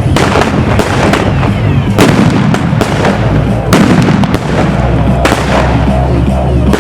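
Fireworks going off: a string of loud, sharp bangs at irregular intervals, about a dozen in seven seconds. Backing music with a steady bass line runs underneath.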